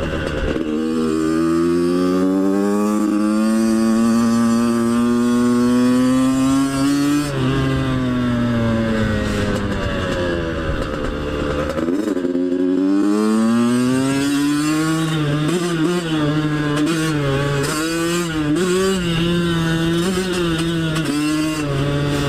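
Two-stroke dirt bike engine under way. It revs up steadily for several seconds, drops back, eases off to a low ebb about halfway through, then picks up again and surges up and down with the throttle.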